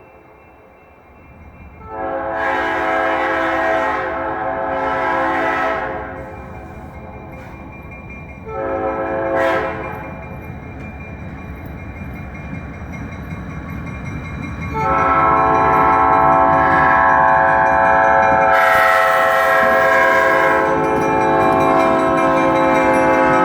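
Nathan K5LA five-chime air horn on an Alco RS-36 diesel locomotive sounding the grade-crossing signal: two long blasts, a short one, then a long one that is held on. The locomotive's low engine rumble runs underneath.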